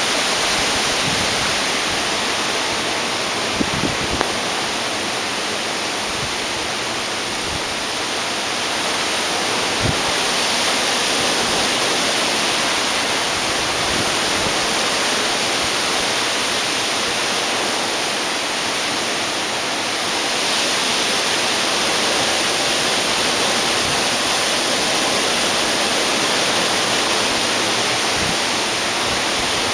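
Hurricane storm noise: a steady, loud rushing hiss of wind and driving rain. There are a few brief knocks a few seconds in and again about ten seconds in.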